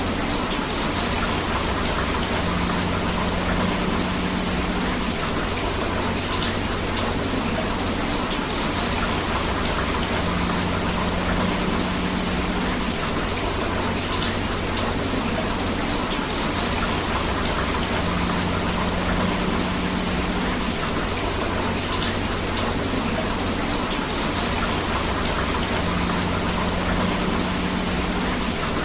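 Steady rain together with rushing river water, an even unbroken hiss. A faint low tone returns about every eight seconds.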